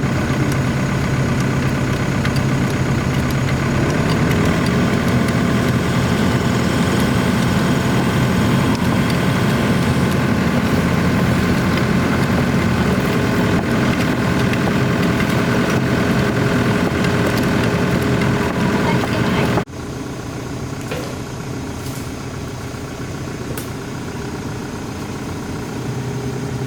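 Excavator's diesel engine working under load, loud and steady, then dropping suddenly to a quieter, steadier running about twenty seconds in.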